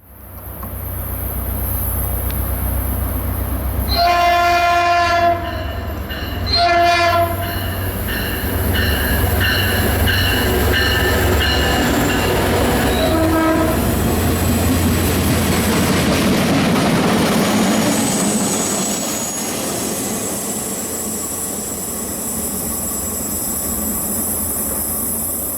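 Train horn sounding a chord in two long blasts about four seconds in, then more faintly with a short blast near the middle, over a low steady locomotive drone. The train's rumble and rail noise then swell as it passes.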